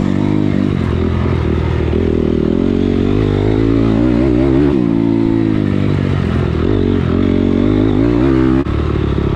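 Dirt bike engine being ridden hard, revving up and down with its pitch rising and falling repeatedly as the throttle opens and closes, and a brief cut in sound near the end.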